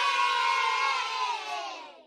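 Sound effect of a crowd of children cheering and shouting, many voices at once, fading out over the last second.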